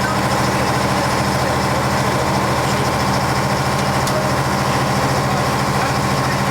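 1966 Scania-Vabis BF56 bus's diesel engine idling steadily.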